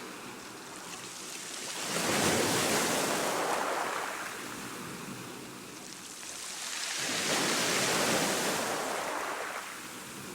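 Ocean waves washing on a shore, two swells of surf that rise and fall away, each about five seconds long.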